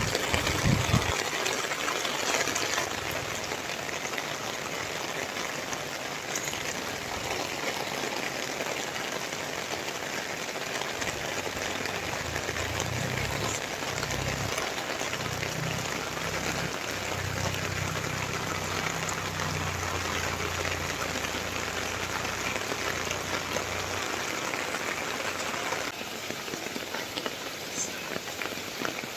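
Steady rain falling, a continuous even hiss of drops on surfaces. A low hum joins in for a while in the middle and then fades, and the rain gets a little quieter near the end.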